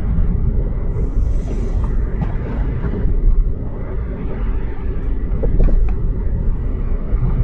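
Car running along a snow-covered street, heard from inside the cabin: a steady low rumble of engine and tyres.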